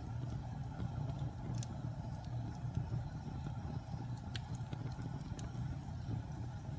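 Wood fire burning with a steady low roar, broken by a few sharp crackling pops.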